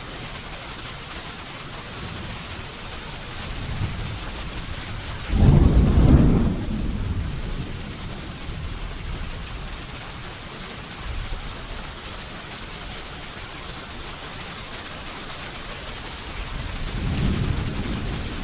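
Steady rain falling, with a loud, low clap of thunder about five seconds in and a softer rumble of thunder near the end.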